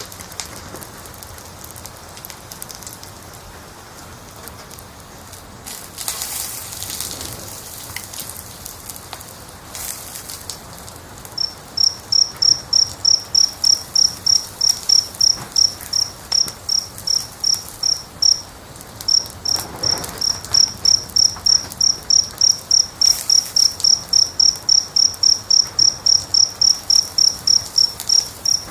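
Crackling fire: a soft, even hiss with occasional pops. About a third of the way in, a cricket starts chirping high and regularly, about three chirps a second, then pauses briefly and carries on.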